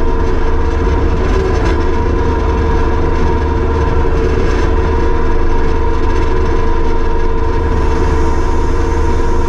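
Kubota SVL75-2 compact track loader's diesel engine running at a steady speed, with a constant whine over the low engine noise.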